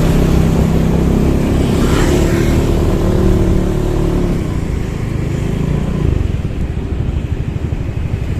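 Motorcycle engine running at steady revs, then dropping about six seconds in to a lower, uneven putter as it slows. A brief rush of noise comes about two seconds in.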